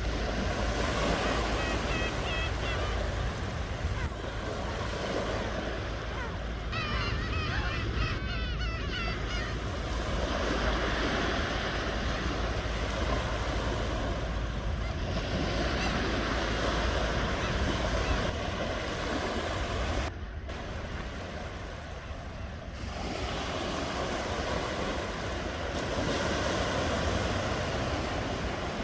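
Ocean waves washing ashore, surging and easing every few seconds, with a low rumble of wind on the microphone.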